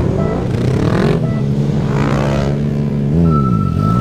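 Yamaha MT-09's inline-three engine held at steady revs, with another engine revving up and down behind it. Near the end the revs dip and then climb again.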